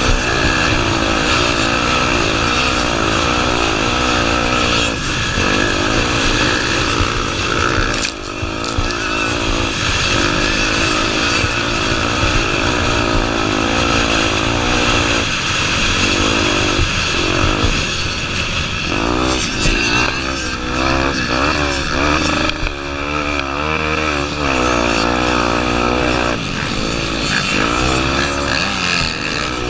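Honda Tornado 250's single-cylinder four-stroke engine running hard as the motorcycle is ridden, its pitch rising and falling constantly with the throttle and gear changes. The swings come faster and deeper a little past the middle.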